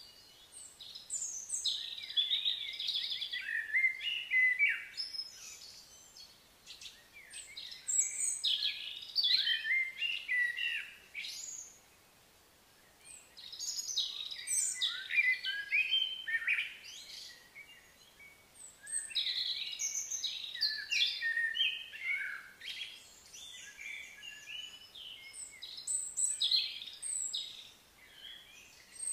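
Songbirds singing and calling, in long bouts of quick, varied chirps and whistles broken by brief pauses.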